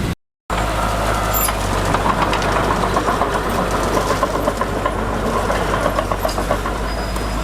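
Diesel engine of heavy earthmoving machinery running steadily, with a fast metallic rattle over it. The sound cuts out completely for a moment just after the start.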